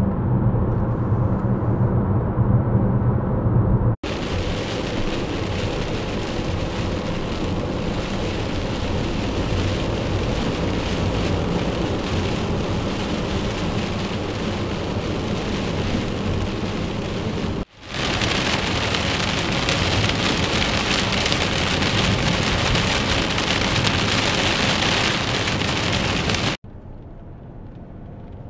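Heavy rain falling on a car's windshield and body, heard from inside the moving car as a loud, even hiss, in two stretches with a brief cut between them. Before it there are a few seconds of low road hum in the cabin, and near the end it gives way to a quieter cabin hum.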